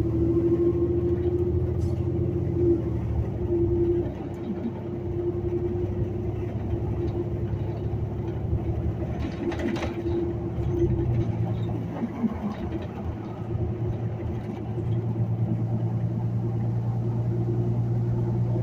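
City transit bus running, heard from inside: a steady low engine hum with a constant mid-pitched drivetrain whine. The engine note drops about four seconds in and builds again near the end.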